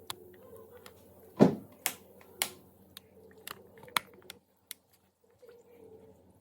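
Sharp clicks and light knocks of a pistol's metal parts and tools being handled during restoration, irregularly spaced, with a heavier knock about a second and a half in.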